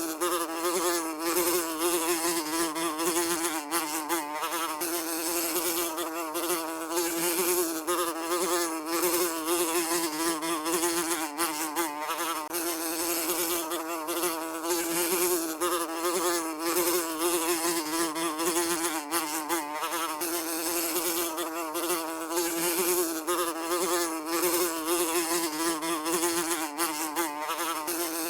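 Housefly buzzing continuously, a steady droning hum that wavers slightly in pitch.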